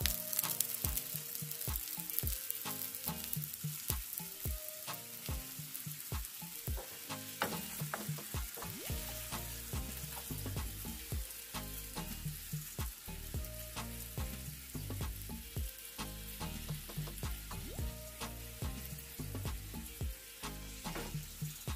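Çiğ börek, a thin dough pastry filled with raw minced meat, shallow-frying in oil in a nonstick pan: steady sizzling with frequent crackling pops. In the second half a wooden spatula presses on the pastry and moves it in the pan.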